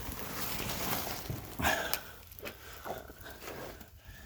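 Rustling and scraping of a person crawling through a low dirt crawl space, with scattered clicks and a short heavy breath.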